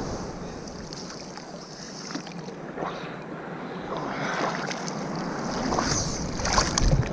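Rough sea water sloshing and splashing, with wind buffeting the microphone in gusts toward the end.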